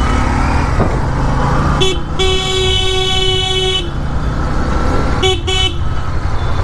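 Vehicle horn honking in dense road traffic over a steady rumble of engines: one long blast about two seconds in, then a short double toot near the end.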